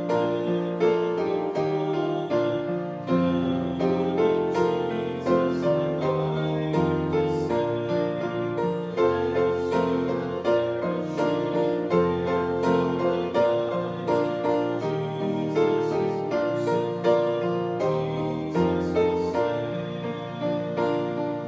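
Piano playing a hymn tune in slow, steady chords.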